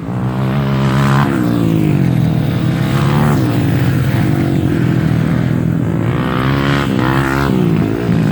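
Off-road motorcycle engine running hard, revving up and down repeatedly as the bike is ridden.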